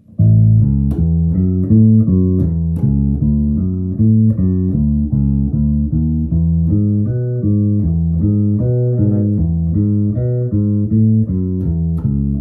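Birdsong Hy5 passive five-string bass played through an amp on its bridge pickup, tone rolled back about halfway: a steady run of plucked bass notes, several a second, without a break.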